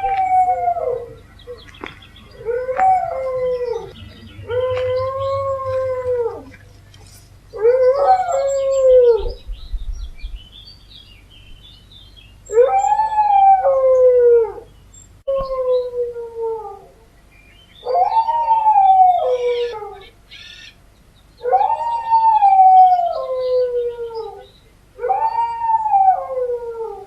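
A dog howling over and over: about nine long howls, each rising and then falling in pitch, with short pauses between them.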